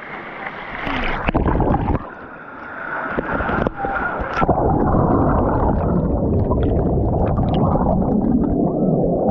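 Water rushing and running in a waterfall pool, with a few knocks in the first seconds. It becomes louder and steadier about halfway in.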